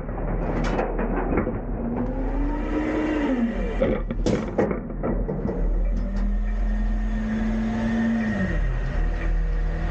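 Front-load garbage truck's engine revving up to drive the hydraulics, rising and falling, held at raised revs and then dropping back about eight and a half seconds in. Sharp metal clanks and bangs near the start and again about four seconds in as the container is worked.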